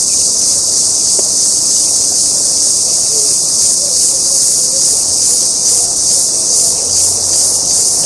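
Loud, steady high-pitched insect chorus, a continuous shrill drone with no break.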